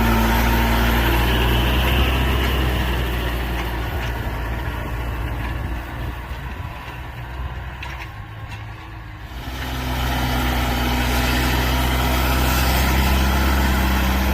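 Large farm tractor's diesel engine running steadily while pulling a plow-rotary through a paddy field. About six seconds in the engine sound drops away, and it comes back about three seconds later.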